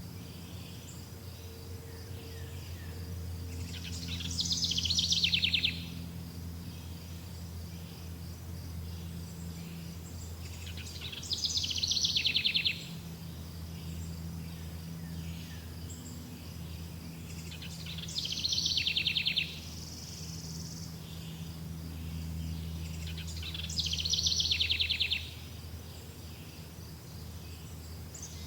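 A songbird sings the same short trilled phrase four times, each about a second and a half long and about six to seven seconds apart. A steady high insect drone and a low hum run underneath.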